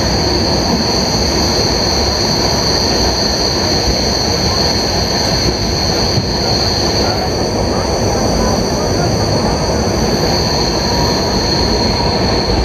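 Tapaswini Express passenger coaches running along a curve, heard from an open coach door. A steady loud rumble of wheels on track carries on throughout, under a continuous high-pitched squeal of wheel flanges grinding on the curved rail.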